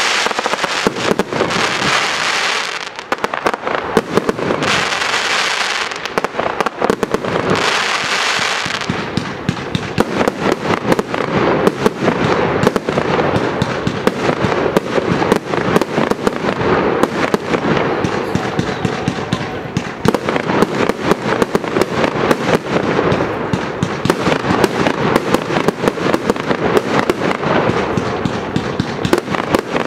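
Fireworks display: loud hissing rushes in the first nine seconds or so as comets shoot up trailing sparks, then a long, dense run of rapid bangs and crackling from bursting shells.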